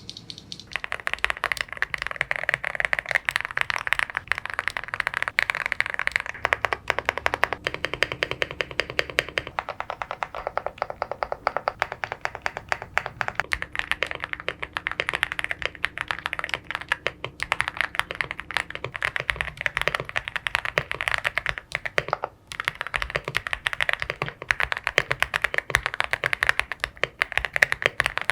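Fast, continuous typing on a LeoBog Hi75C Pro mechanical keyboard, many keystrokes a second, with one brief pause about three-quarters of the way through.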